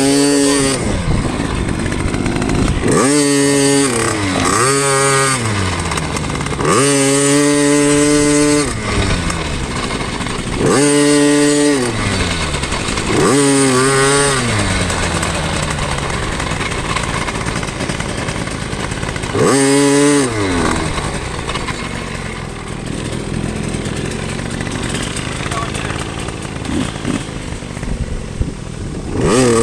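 Two-stroke KTM dirt bike engine revving up and dropping back about seven times, with a steadier, lower running sound in between.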